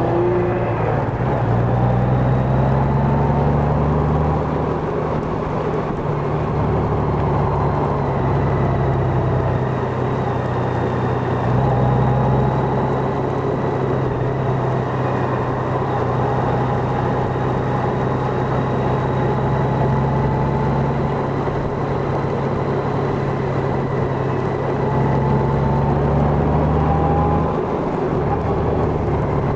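Honda Gold Wing motorcycle engine running while riding at cruising speed, with steady road noise. The engine note holds steady and shifts in pitch a few times as the speed changes.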